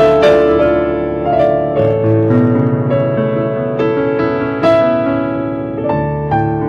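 Keyboard playing slow instrumental music, a melody over held chords, with a softer stretch in the middle before new notes come in near the end.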